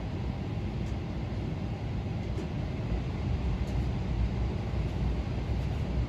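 Steady low rumble inside the cabin of a Boeing 777-300ER on the ground before takeoff, with a few faint ticks.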